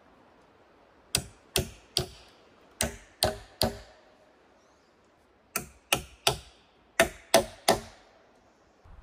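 Sharp tool blows on wood, twelve strikes in four quick groups of three, each with a short ring.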